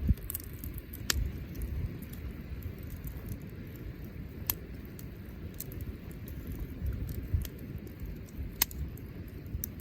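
Wood bonfire burning: scattered sharp pops and crackles at irregular moments over a low steady rumble.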